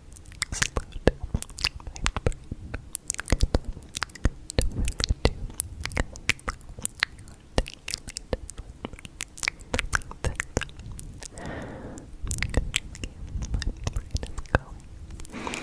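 Close-miked ASMR mouth sounds: a dense, irregular run of sharp clicks and smacks like chewing. There is a brief breathy sound about eleven and a half seconds in and again near the end.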